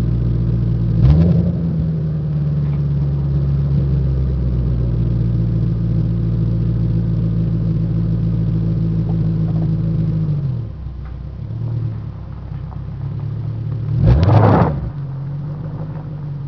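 1997 Ford Thunderbird engine through an exhaust with Flowmaster mufflers and the resonator removed. It is revved up about a second in and held at raised revs for about nine seconds, drops back to idle, then gets one quick blip of the throttle near the end before settling to idle again.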